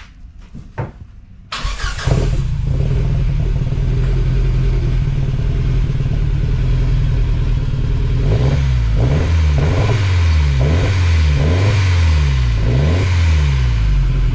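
Ford Sierra Cosworth 4x4's turbocharged 2.0-litre four-cylinder engine starting quickly about a second and a half in, after a few faint clicks, then running steadily. In the second half it is revved up and down about six times before settling. This is the engine's first start after standing for 16 years.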